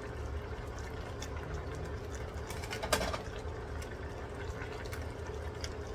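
Chicken skin frying in a pan, faint scattered crackling as its fat renders out, over a steady low hum. A single sharp knock comes about three seconds in.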